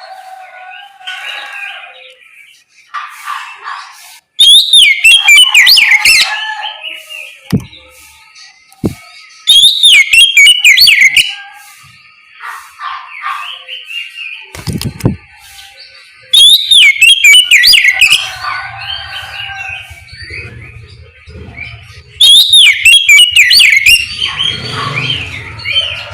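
Oriental magpie-robin (kacer) singing loud bursts of quick, warbling, sliding whistled song about every six seconds, with quieter chattering notes in between.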